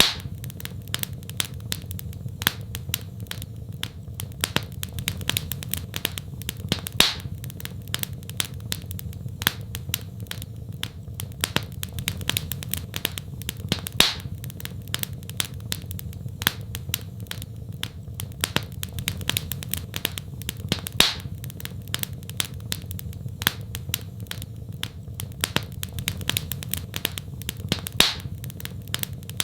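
Wood fire in a fireplace crackling steadily, with dense small snaps and a louder pop about every seven seconds, over a low, even rumble of the flames.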